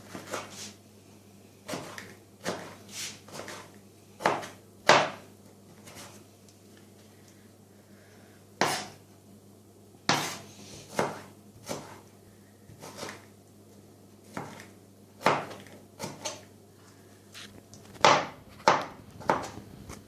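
Kitchen utensils knocking and clattering, about twenty sharp irregular knocks with a quick run of three near the end.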